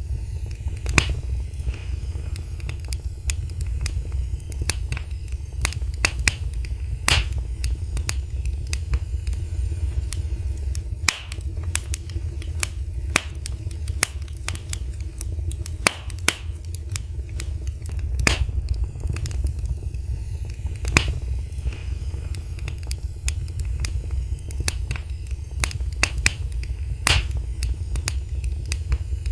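Wood fire in a fireplace crackling: sharp pops and snaps at irregular moments, several a second at times, over a steady low rumble of the flames.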